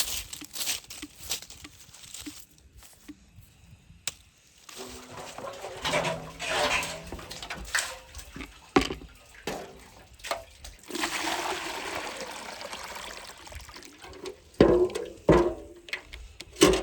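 Water pouring and splashing in two long stretches, followed by a few sharp knocks near the end.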